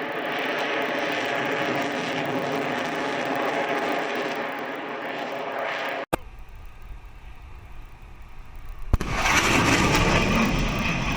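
Fighter jet engine noise in several cut-together shots: a steady jet sound with a whine of tones, an abrupt cut about six seconds in to a quieter low rumble, then another cut about nine seconds in to a louder rushing jet sound.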